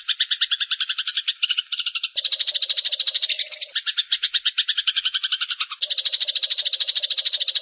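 Eurasian tree sparrows giving rapid, chattering fight calls, a fast run of roughly ten or more notes a second, the pattern changing abruptly about two seconds in and again near six seconds.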